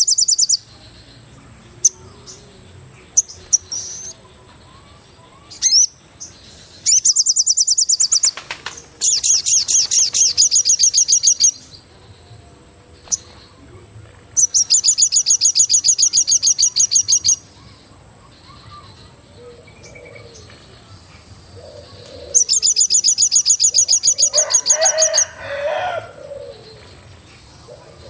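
Forest birdsong: four loud bursts of rapid, evenly pulsed high-pitched trills, each lasting about two to three seconds, over a faint steady high whine. A lower, cooing call comes in near the end.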